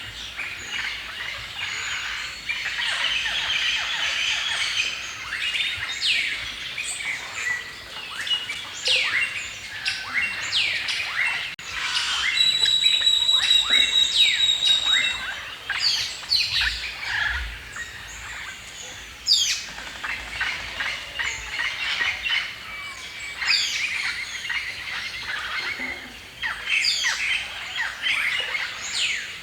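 Many birds chirping and singing at once: a dense tangle of short, quick sweeping chirps and calls, with a louder, busier stretch near the middle where a repeated high note stands out.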